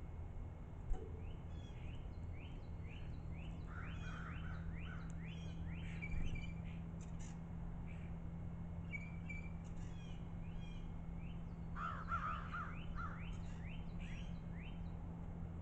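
A bird calling in a long series of short, harsh notes, two or three a second, with two louder, lower bursts about four and twelve seconds in. A steady low hum runs underneath.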